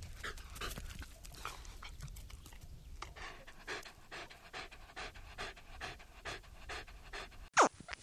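A dog panting in quick, even breaths, about two a second. Near the end a loud falling cry cuts in.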